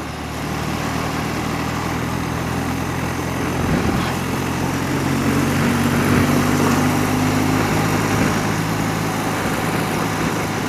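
BMW motorcycle engine running steadily on the road, with wind and road rush over the microphone; it gets a little louder about four seconds in.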